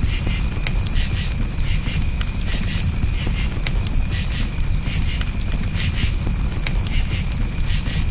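Crickets chirping steadily, about two chirps a second, over a campfire with a low rumble and scattered sharp crackles and pops.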